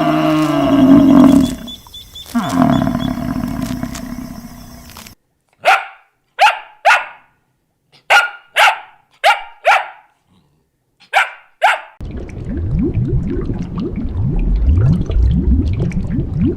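Three separate animal sounds in turn: a long, low pitched call lasting about five seconds, then a dog barking about nine times in short sharp barks, then a low rough rumbling growl.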